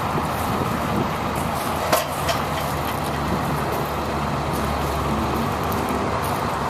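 Engine of a 2002 International mechanics truck running steadily, with a single sharp click about two seconds in.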